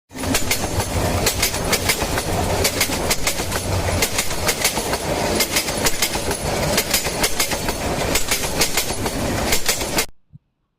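Train wheels clattering over rail joints: a dense run of sharp clicks over a steady rumble, cutting off abruptly about ten seconds in.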